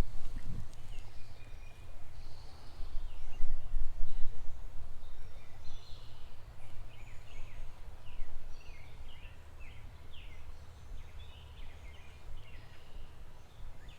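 Songbirds chirping, with many short, quick notes, some sweeping down in pitch, scattered through. Beneath them runs a low, uneven rumble, strongest in the first few seconds.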